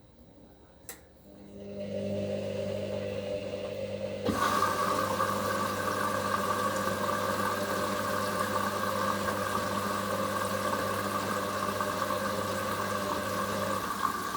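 Hoover HLW585DC washer dryer filling with water: a click, then a steady mechanical hum, and about four seconds in a sudden loud rush of water flowing into the machine.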